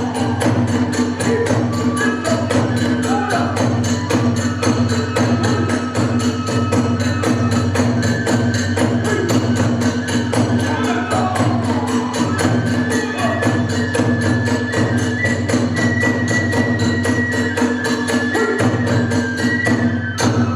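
Kagura hayashi, the accompaniment to a kagura dance: a fast, steady beat of drums and small hand cymbals under a held, gliding bamboo-flute melody.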